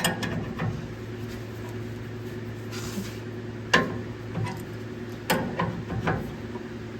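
Scattered metallic clinks and knocks of hand tools and metal parts as the truck's rear suspension is adjusted for pinion angle, the sharpest knock about four seconds in, over a steady low hum.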